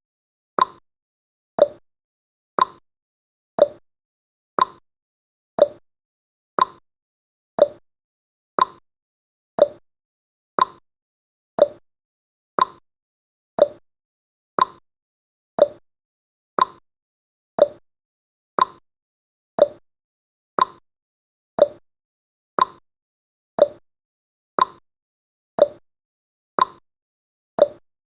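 Ticking-clock sound effect of a countdown timer: one sharp tick each second, perfectly even.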